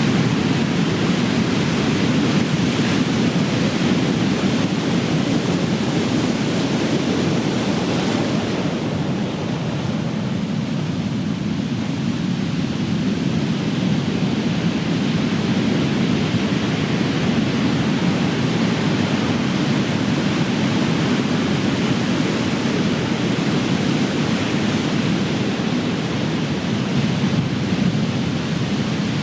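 Big ocean waves breaking in steady, continuous surf, easing slightly about nine seconds in before building again.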